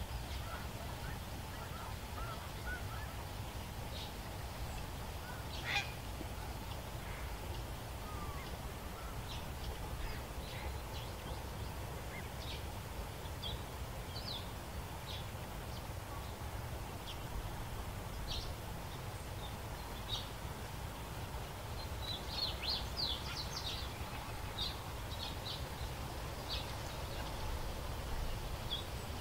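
Outdoor ambience: a steady low rumble with scattered short, high bird chirps, including a quick run of them about three quarters of the way through.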